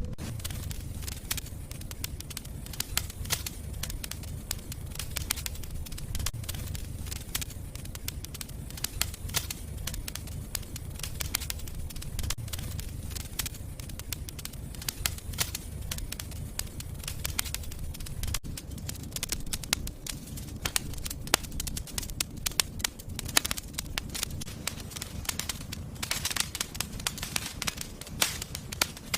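Wood fire crackling and popping in a fireplace, many small irregular snaps over a low steady rumble of the flames. The crackles come thicker near the end.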